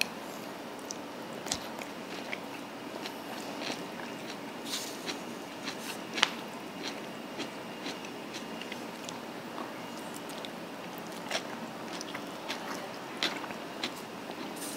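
Someone eating a rice meal with a spoon: chewing, with irregular small clicks and taps, over steady background noise. The sharpest click comes about six seconds in.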